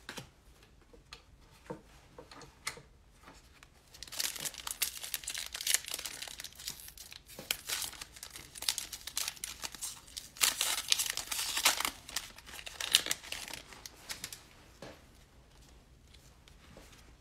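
Plastic wrapper of a pack of football trading cards crinkling and tearing as the pack is opened, in two spells of dense crackling, the first about four seconds in and the second about ten seconds in, with a few faint clicks before them.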